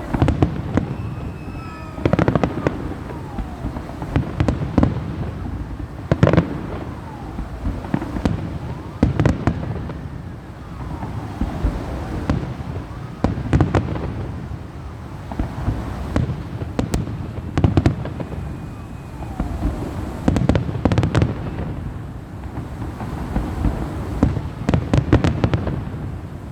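Salute fireworks shells bursting in the sky one after another, a bang every second or two over steady crackling, with a few thin whistles gliding in pitch.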